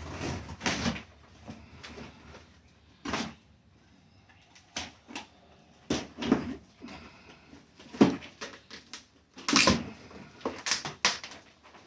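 A cardboard box being worked open around a portable air conditioner: irregular scrapes, rustles and knocks, the sharpest a little past the middle and about two-thirds of the way in.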